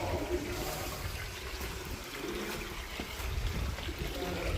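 Water trickling in a shallow gorge stream, a steady running sound with a low rumble underneath.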